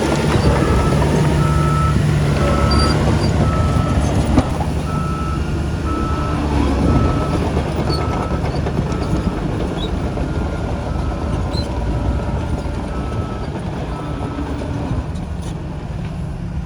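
Heavy diesel earthmoving machine running with a deep engine rumble while its reversing alarm beeps about once a second as it backs up; the beeping stops near the end while the engine keeps running.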